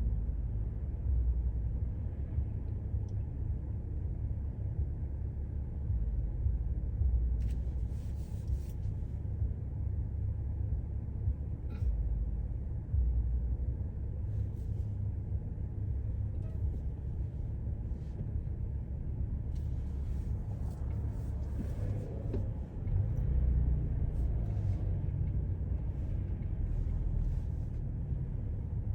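A vehicle driving: a steady low rumble of engine and road noise, with scattered faint clicks and rattles over it.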